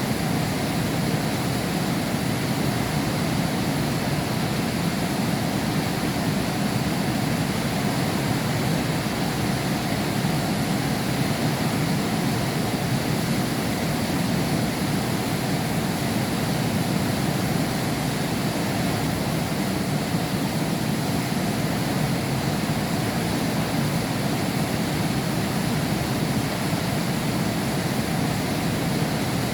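Heavy rain falling steadily behind a window pane, an even, unbroken rushing hiss with no thunder.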